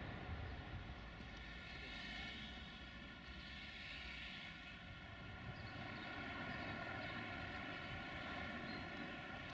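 Steady, distant train rumble with a faint hum of several held tones over it.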